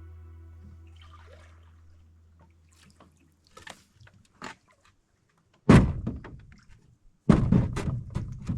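Background guitar music fades out. Then come a few light clicks and knocks, and loud hollow thunks about six and seven-and-a-half seconds in: a canoe being handled, hull and paddle knocking.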